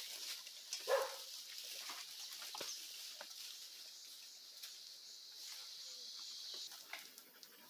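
A dog making a short vocal sound about a second in, over a steady high hiss that fades out near the end.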